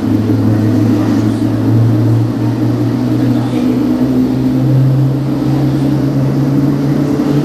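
General Electric GE90-115B turbofan of a Boeing 777-300ER running during its start, a loud steady drone whose low hum steps up in pitch about halfway through and again near the end as the engine spools up.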